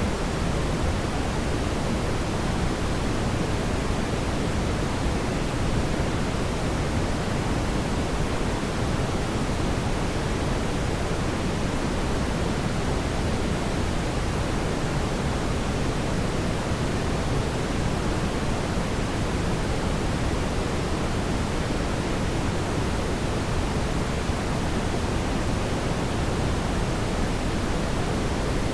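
Fireplace ambience: a steady, even rushing noise, heaviest in the low end, with no separate crackles or pops.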